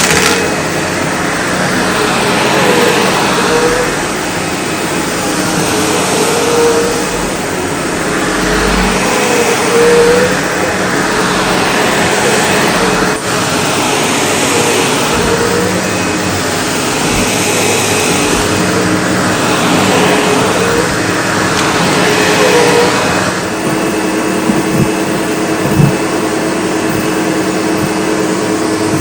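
SEBO Automatic X4 bagged upright vacuum cleaner running steadily while pushed back and forth, its sound swelling and easing about every three to four seconds. About 23 seconds in it settles into a steadier tone, with a couple of short clicks soon after.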